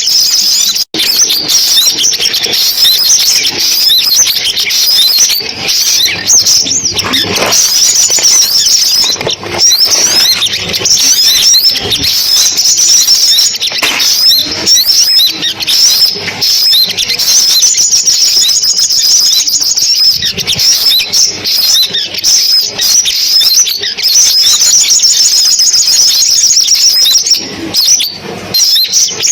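Sunbirds calling: a dense, unbroken stream of high, rapid chirps and twittering trills from a lure recording, with a split-second gap about a second in.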